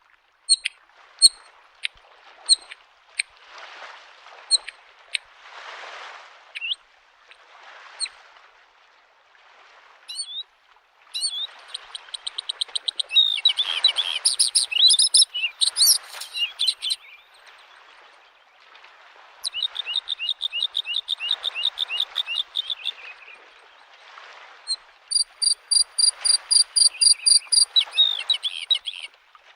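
Bluethroat singing: scattered sharp single notes, then three fast runs of rapidly repeated high notes. Underneath, small lake waves wash softly against the shore in slow swells.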